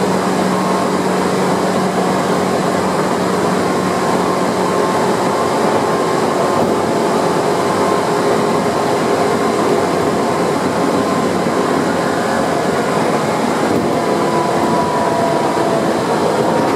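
Tokyu 8500 series electric train running on the rails, heard from on board: steady wheel-and-rail running noise with faint motor and gear tones, and a low hum that fades out about five seconds in.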